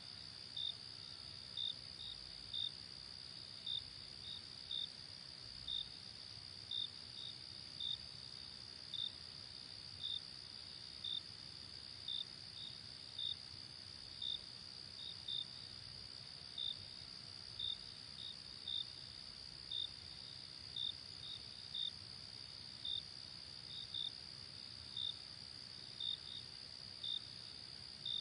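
Night insects, crickets, calling: a steady high trill with a sharper, louder chirp about once a second over it.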